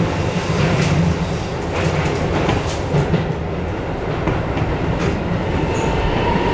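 Electric commuter train running on the Keisei line, its steady rumble broken by scattered clicks of the wheels over the rails. A thin steady tone joins in near the end.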